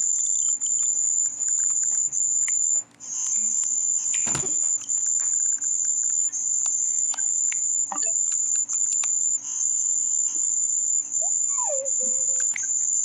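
A sound-effect track whose main sound is a steady, very high-pitched trill that breaks off briefly about once a second. Over it come scattered clicks, a short loud whoosh about four seconds in, and a falling pitch glide near the end.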